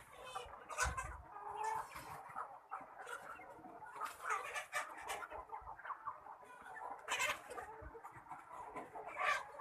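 A flock of chickens clucking and calling over one another without pause, with a few louder squawks standing out, about a second in, around four seconds, seven seconds and nine seconds.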